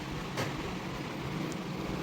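Steady road and engine noise of a vehicle on the move, with a brief click about half a second in.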